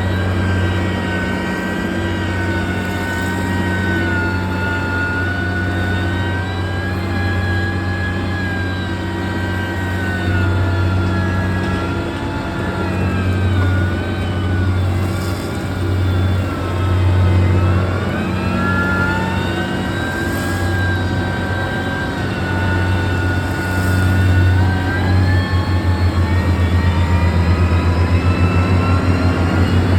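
Heavy diesel engine of a road-construction machine running under varying load, its pitch dipping and rising several times. Near the end the sound takes on a rapid pulsing.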